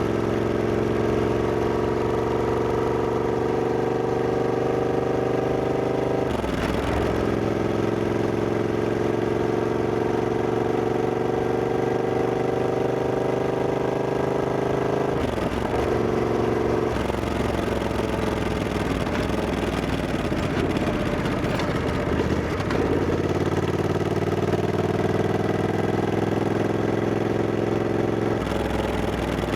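Triumph Scrambler 1200X's parallel-twin engine pulling under acceleration, its pitch climbing steadily and then dropping sharply at upshifts about six seconds and fifteen seconds in. After that it runs lower and unevenly, then climbs again near the end.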